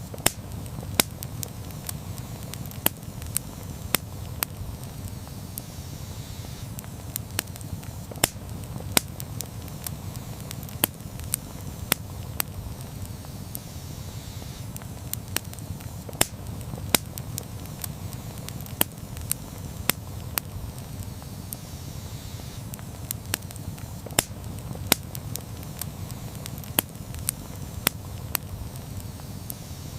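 Wood campfire crackling: irregular sharp pops and snaps, several every few seconds, over a steady low rumble of the burning fire.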